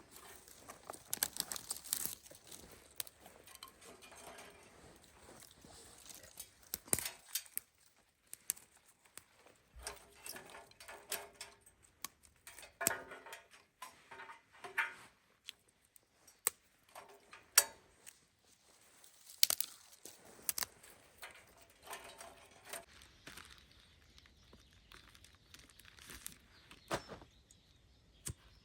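Scattered sharp clicks, knocks and short crinkling, rustling sounds of things being handled.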